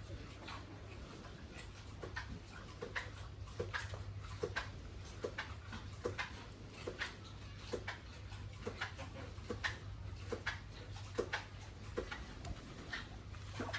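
Pig making short grunts in an even rhythm, about one every three-quarters of a second, over a steady low hum.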